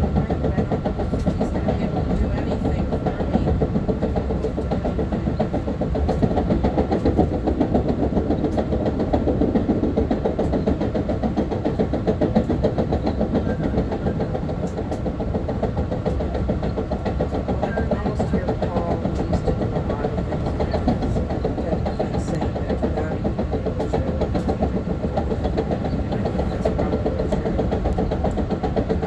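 Long Island Rail Road M3 electric multiple-unit train running, heard from inside the car: a steady rumble of wheels on rails with a faint steady hum.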